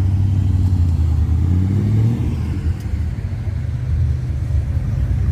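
A car engine running close by with a steady low rumble, its pitch rising briefly about a second and a half in as if given a light rev.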